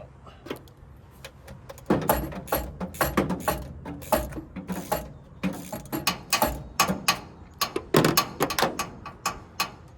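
Ratchet wrench clicking in quick, uneven runs as it is worked back and forth, turning a fastener during a spark plug and coil change.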